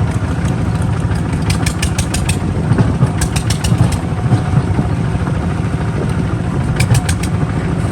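Kubota RT 140 DI single-cylinder diesel engine running steadily under load. Three short runs of rapid sharp clicks sound over it.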